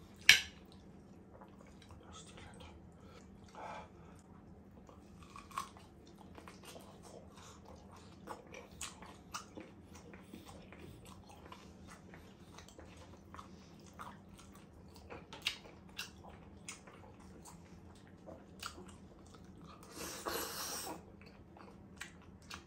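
Close-miked chewing of steak: soft wet mouth clicks and smacks throughout. There is a sharp clink of cutlery against the plate just after the start, and a short louder sound about twenty seconds in as a spoonful of mashed potato goes into the mouth.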